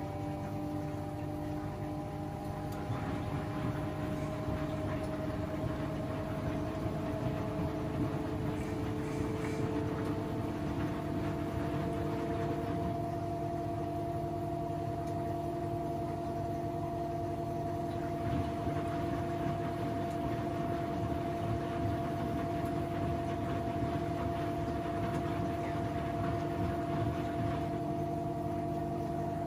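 Washing machine drum motor running with a steady whine over a low hum. The whine rises slowly in pitch over the first dozen seconds, then holds: the drum building up to and holding a spin speed.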